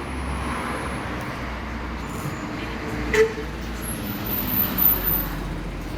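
Steady rumble of road traffic in the street. About three seconds in there is one short sharp sound.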